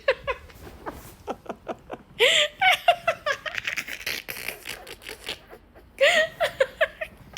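Hearty laughter in two loud fits, about two seconds in and again about six seconds in, with quieter chuckling between.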